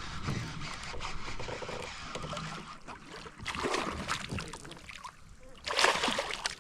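Water splashing and sloshing around a fishing kayak as a freshly caught bass is handled, with scattered knocks and a louder splash about six seconds in.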